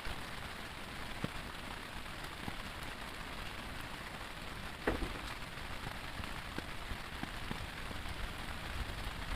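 Heavy rain falling steadily, with scattered individual drop impacts and one louder tap about halfway through.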